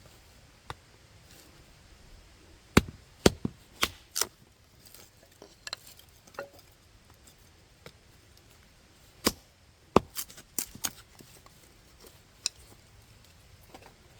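Sharp wooden strikes of firewood being chopped, in two bursts of about five blows each a few seconds apart, with a single blow near the end.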